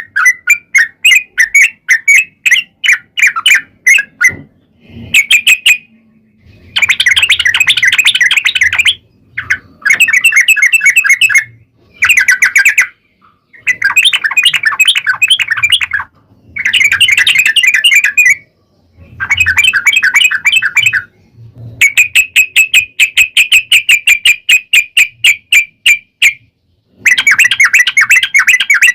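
Yellow-vented bulbul (trucuk) song: long, fast rolling trills of rapid repeated notes, loud, coming in bursts of one to three seconds with short pauses between them. This is the kind of song played as a lure to set a caged bulbul answering.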